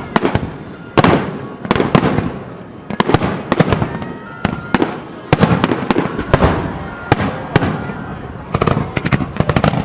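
Aerial fireworks shells bursting one after another: about a dozen sharp bangs, some in quick clusters, each trailing off into crackle and echo.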